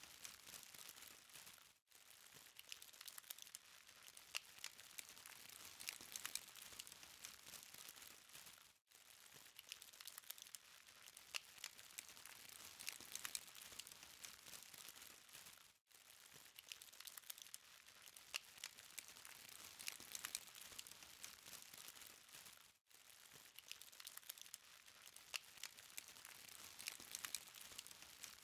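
Charcoal fire crackling faintly, with a constant patter of small pops and ticks. The sound drops out briefly about every seven seconds.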